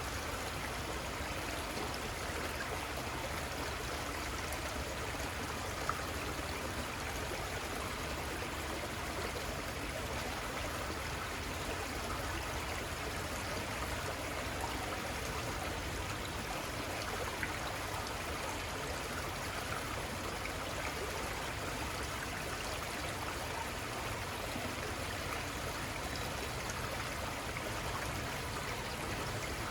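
Shallow river water running and babbling steadily over stones.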